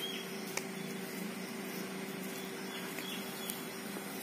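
A few short, high bird chirps, one right at the start and a couple about three seconds in, over a steady low hum, with two faint clicks.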